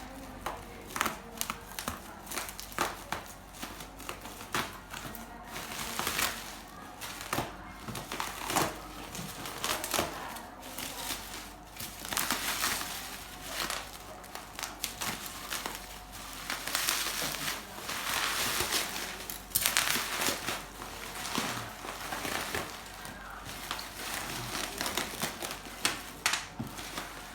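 Packaging of a cut-off machine being handled and torn open: irregular crinkling and rustling, with scattered sharp clicks and knocks.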